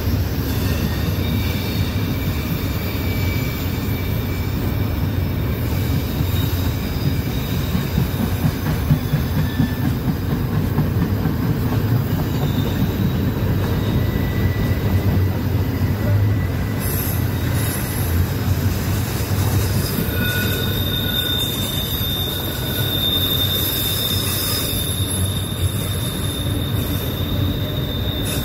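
A big train passing close by: a steady low rumble of the cars rolling on the rails, with thin high-pitched wheel squeals coming and going, most sustained in the second half.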